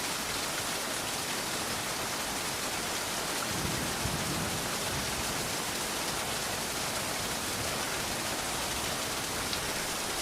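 Rain falling in a steady, even hiss. A brief low rumble swells about four seconds in.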